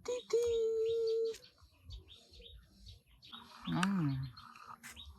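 Small birds chirping in the background. Near the start there is a steady held tone lasting about a second, and about four seconds in there is a short call that rises and falls in pitch.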